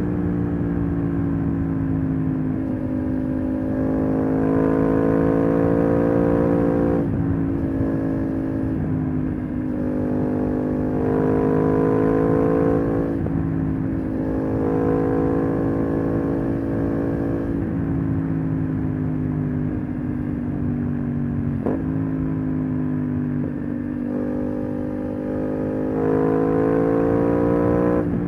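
Aprilia RS 660's 659 cc parallel-twin engine running through an SC-Project SC1-R slip-on exhaust while riding. The note climbs in pitch several times under throttle and drops suddenly in between.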